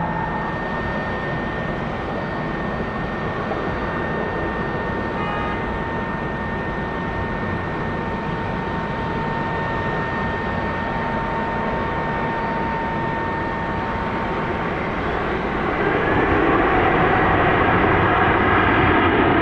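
Widebody jet airliner engines: a steady roar with a high whine over it, swelling louder about three-quarters of the way in.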